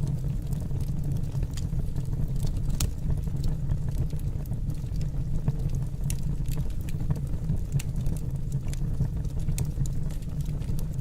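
Fire in a fireplace crackling: scattered sharp crackles and pops at irregular intervals over a steady low rumble.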